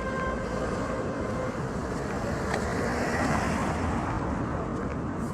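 Street noise with a passing vehicle: its sound swells to a peak about three seconds in, then fades.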